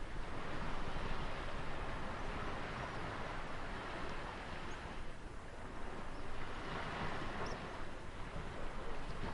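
Ocean surf washing in, a steady rushing noise with a low rumble that swells about a second in, eases, and swells again near seven seconds.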